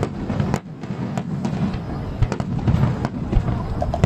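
Fireworks barrage: a rapid series of sharp shell bursts and cracks over a continuous low rumble of booms, with a brief lull about half a second in.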